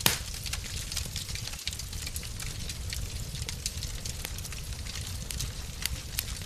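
Wood fire crackling in a fireplace: a steady low rumble with scattered pops and snaps, the loudest pop right at the start.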